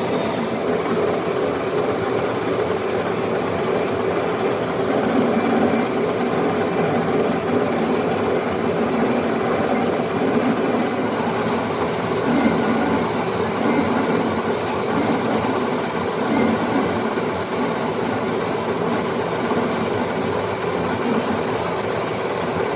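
Metal lathe running steadily, a constant machine hum that swells a little now and then.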